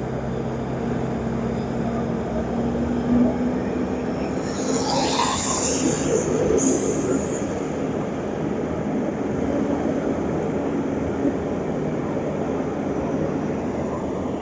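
Heavy roadwork machinery running with a steady engine drone. Partway through comes a loud, harsh high hiss lasting about three seconds.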